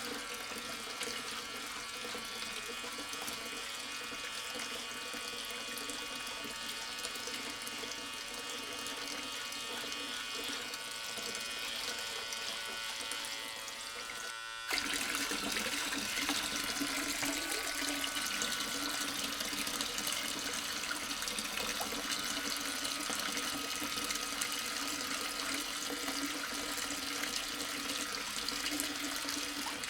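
Water running and splashing steadily from a small DIY electric water pump. It breaks off for a moment about halfway through, and after that the water is a little louder.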